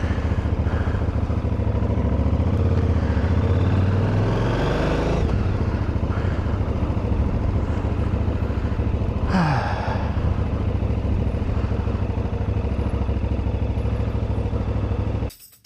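KTM 990 Adventure's V-twin engine running under way, with wind rush on the microphone; the engine note rises about four seconds in and eases off a second later. The sound cuts off abruptly just before the end.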